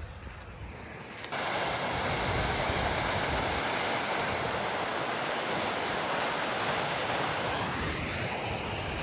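Steady, loud rush of a waterfall's falling water, which comes in suddenly about a second in over a quieter background of flowing water and wind.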